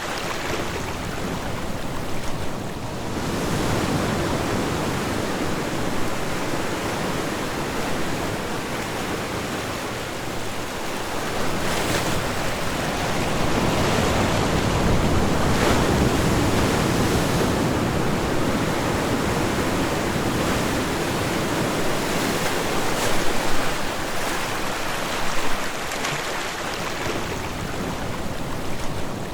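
Ocean waves breaking and washing on a shore, a continuous surf that swells and eases every several seconds, with a few brief sharper splashes.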